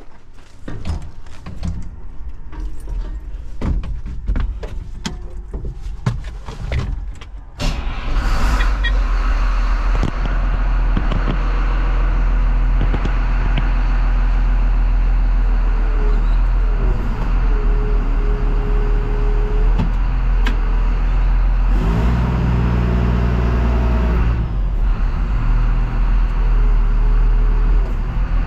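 Irregular sharp clicks and knocks for the first several seconds, then about eight seconds in a plow truck's engine and road noise come up loud and steady as it drives on, the engine note shifting briefly about two-thirds of the way through.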